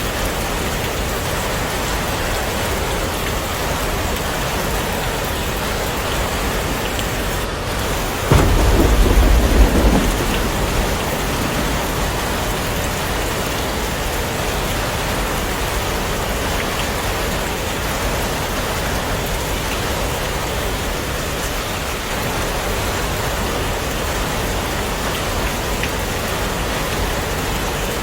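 Heavy rain falling steadily, with a sudden clap of thunder about eight seconds in that rumbles low for about two seconds and then fades back under the rain.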